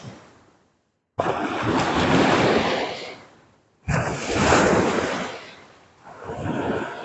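Surf washing up on a beach in swells that build and fade. The sound drops out briefly just before a second in and comes back suddenly, then a fresh swell starts sharply about four seconds in.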